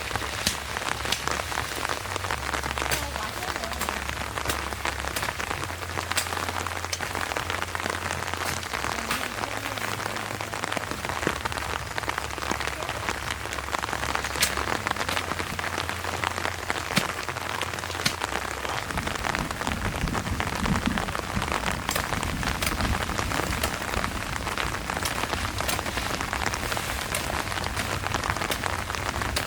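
Steady rain falling on a surface, with many separate drops ticking through the hiss.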